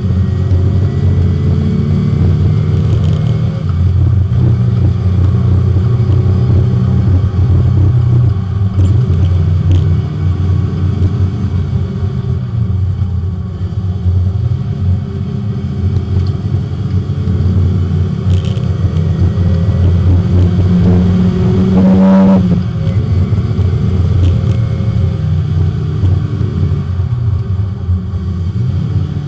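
Porsche 924 race car's four-cylinder engine heard from inside the car on track, the revs climbing and dropping repeatedly through gear changes and corners. About 22 seconds in the revs jump sharply for a moment.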